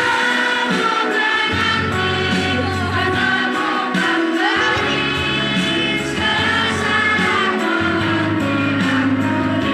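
A school children's choir singing together over an instrumental accompaniment, with sustained sung notes and a steady bass line underneath.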